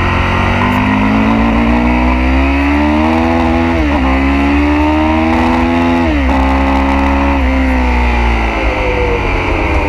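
Sportbike engine under hard acceleration out of a corner, its pitch climbing with quick upshifts about four and six seconds in, then falling near the end as the rider shuts off for the next corner. Heavy wind rumble on the microphone throughout.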